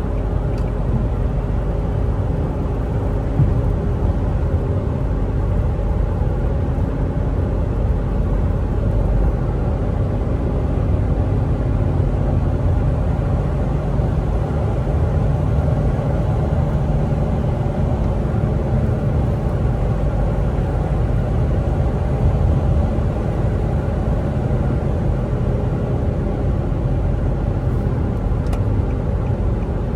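Infiniti G37 xS's V6 engine and tyre and road noise heard inside the cabin while cruising at a steady pace: a low rumble that holds even throughout.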